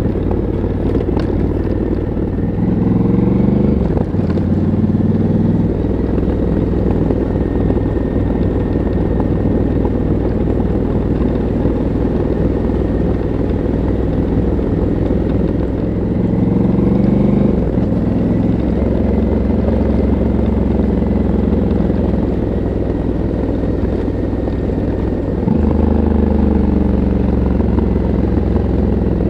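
Stock exhaust of a 2022 Honda CRF1100L Africa Twin's parallel-twin engine, heard from the rider's helmet while riding. Twice the engine pitch climbs under acceleration and then drops sharply at a gear change, once about four seconds in and again near the middle. The pitch changes abruptly once more near the end, over steady wind noise.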